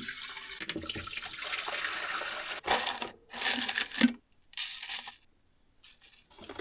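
Water running from a tap into a container, steadily for about two and a half seconds, then in several short bursts that stop abruptly, with a sharp knock about four seconds in.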